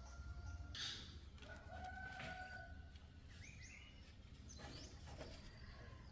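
Faint rooster crowing, one drawn-out call a couple of seconds in, with a few light knocks.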